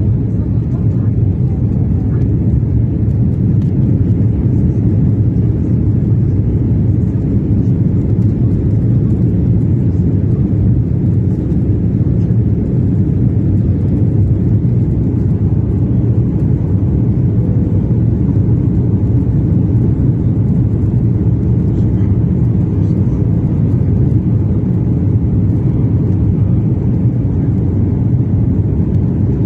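Airliner's jet engines and airframe heard from inside the passenger cabin, a loud, steady low rumble that holds even throughout.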